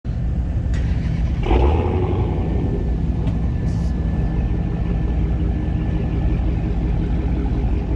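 A car engine running steadily with a low rumble, with a brief louder surge about one and a half seconds in.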